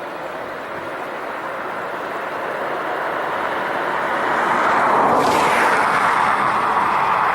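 Jet aircraft engines running, a steady rushing noise that builds over about five seconds and then holds loud, with a sharper hiss coming in about five seconds in.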